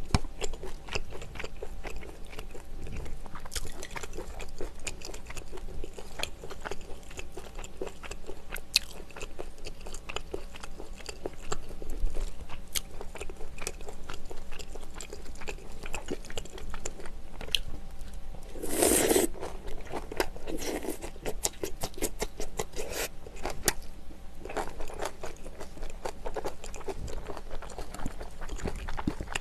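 Close-miked eating: chewing and crunching of food, with many small clicks of chopsticks and a metal spoon against bowls. There are a few louder noisy bursts about two-thirds of the way through.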